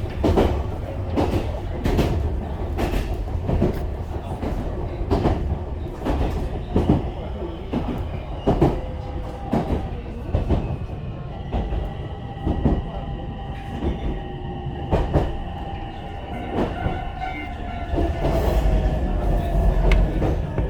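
Ichibata Electric Railway train running, heard from inside the car: a low rumble with wheels clacking over rail joints at uneven intervals. About halfway a high whine sets in, and near the end it falls in pitch.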